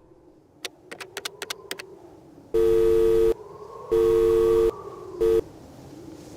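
A quick run of about eight sharp clicks, then a steady electronic beep tone sounding twice for most of a second each and a third time cut short.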